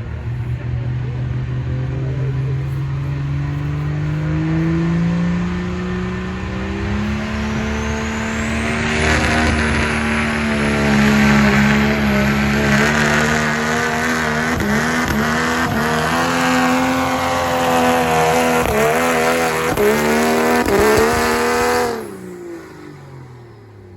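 Diesel truck engine pulling under heavy load, its pitch climbing steadily with a turbocharger whistle rising high. The revs waver toward the end, then the throttle cuts off suddenly about 22 seconds in and the engine falls away.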